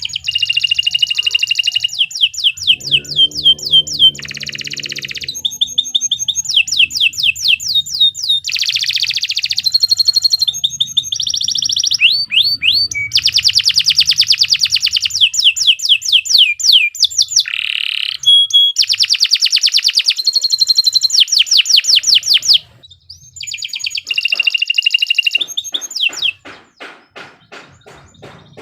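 Domestic canary singing a long, loud song of rapid trills and repeated rolling phrases. The song breaks briefly about 23 seconds in, then resumes as quicker, fainter notes near the end.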